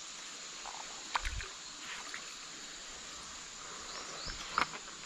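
Creek water running steadily, with a few brief knocks and splashes about a second in and again near the end.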